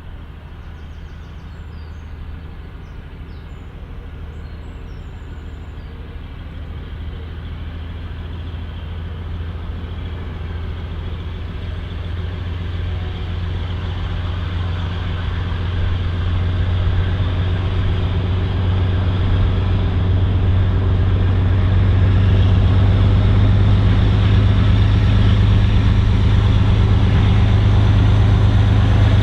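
Diesel locomotive engine running with a steady low drone, growing steadily louder for about twenty seconds and then holding level.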